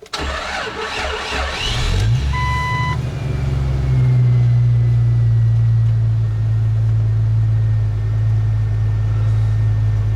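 Jeep TJ cold start in freezing weather: the starter cranks for about two seconds before the engine catches and starts right up, then settles into a steady cold idle, a little higher about four seconds in. A short electronic beep sounds just after it catches.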